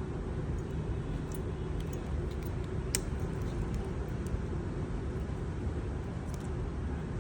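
Steady low rumble of background road traffic, with a few light clicks, the sharpest about three seconds in.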